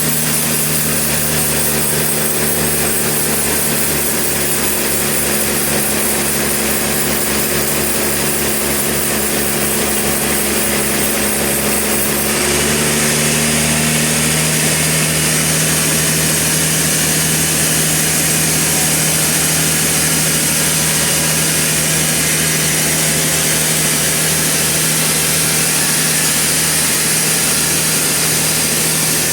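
Sawmill running steadily, a motor hum with saw noise over it; about twelve seconds in the sound turns a little louder and brighter.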